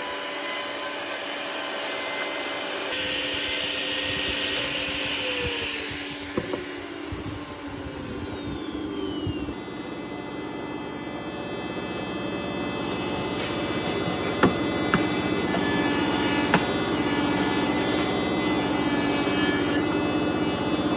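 Electric power tools working wood: motors running and abrading or cutting, changing abruptly several times. Partway through, a motor winds down in pitch, and there are a few sharp knocks.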